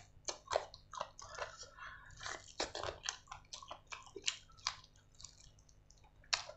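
A person chewing grilled chicken with the mouth open to the sound: a quick, irregular run of short wet clicks, thinning out after about five seconds.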